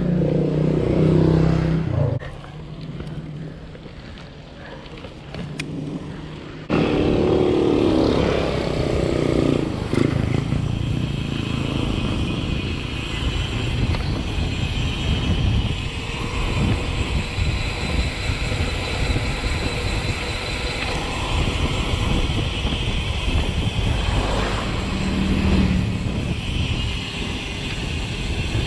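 Wind on the microphone and rolling noise from a mountain bike riding along a road. A motor vehicle's engine is heard in the first couple of seconds and again briefly about 25 seconds in.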